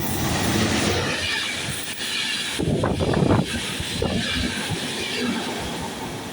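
A train passing close by on the rails: a steady loud rush of wheel and rail noise, rising to a louder patch about three seconds in.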